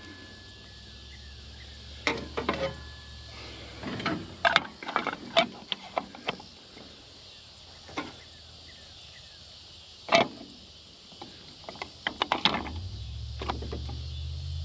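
Irregular clicks and knocks from an Earthway push garden seeder being handled and worked on. A low steady hum comes in near the end.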